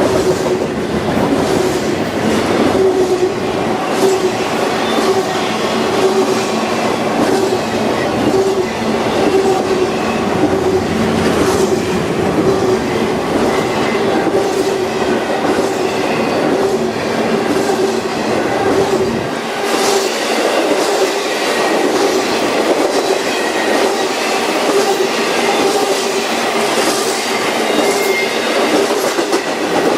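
Freight train cars rolling past, wheels clicking over the rail joints, with a steady whine and occasional wheel squeal. The deep rumble drops away about two-thirds of the way through.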